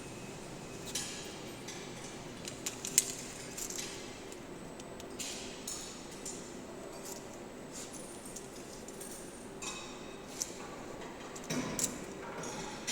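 800 W CNC milling spindle running with a steady hum and whine, with scattered sharp ticks and clinks over it: a loud click about three seconds in and a cluster near the end.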